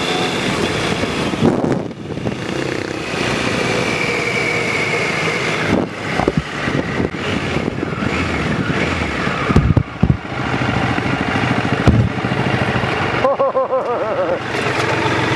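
A motor vehicle engine running steadily, with a few sharp knocks about six, ten and twelve seconds in.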